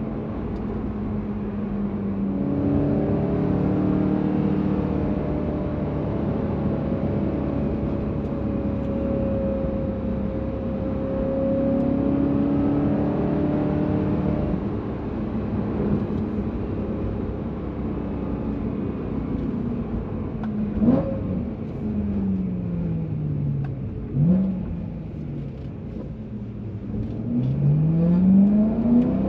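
BMW E92 M3's 4.0-litre V8 through an M Performance exhaust, running at a steady pitch, then dropping in revs about two-thirds of the way in with two short sharp blips. The revs climb quickly near the end as the car accelerates.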